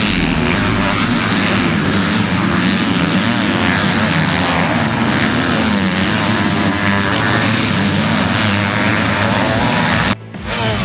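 Several motocross bike engines revving up and down together as the bikes race. The sound drops out briefly near the end.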